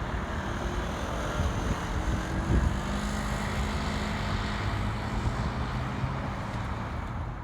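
A steady mechanical rumble of a running engine, with a low, even hum setting in about two and a half seconds in.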